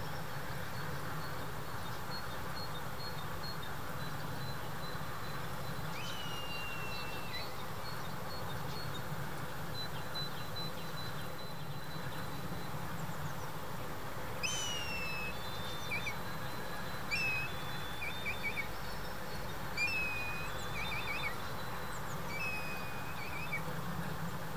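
Bird calls: one clear whistle with a slight downward slide about six seconds in, then a run of short whistles and quick trills through the second half, over a steady low background rumble.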